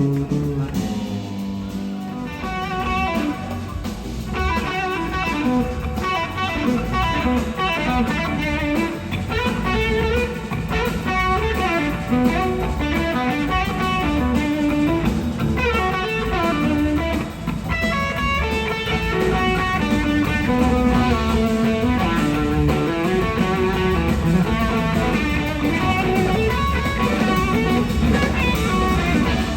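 Electric slide guitar soloing live over a full band: a busy line of notes that often slide between pitches, with bass and drums underneath.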